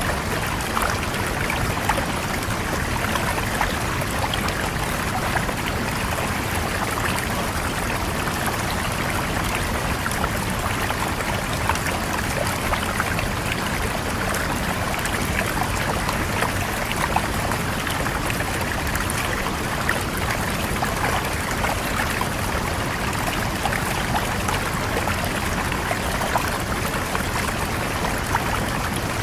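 Stream of running water flowing steadily over rocks, a continuous splashing and trickling rush.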